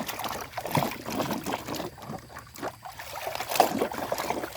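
Water splashing and trickling in irregular bursts as a muddy toy is scrubbed and rinsed by hand.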